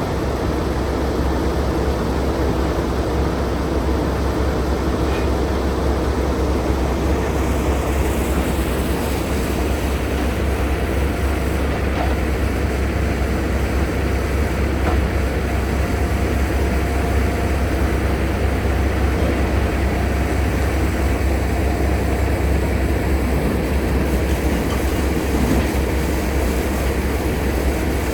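Logging truck's diesel engine running steadily while driving, a constant low drone with road noise.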